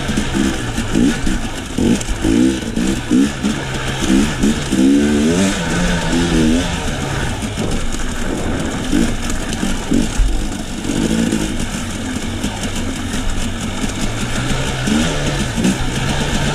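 KTM enduro dirt bike engine revving up and down over and over as the rider works the throttle on and off.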